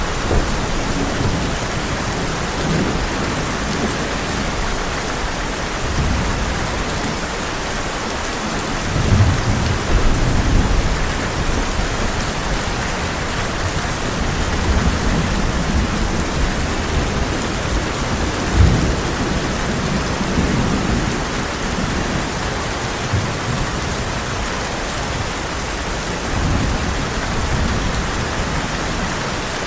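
Heavy rain falling steadily on a tin roof, with thunder rumbling low again and again. The strongest rumbles come about nine to eleven seconds in, with a short sharper one near nineteen seconds.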